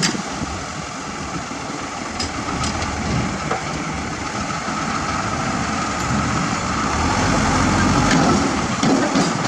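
Heavy diesel engine of earthmoving machinery running, growing gradually louder, with a few sharp clicks in the first three seconds.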